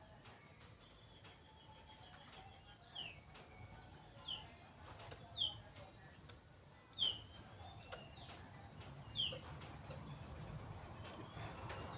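White-rumped shama calling: a series of about six short, clear notes, each sliding downward, repeated every second or so and heard faintly.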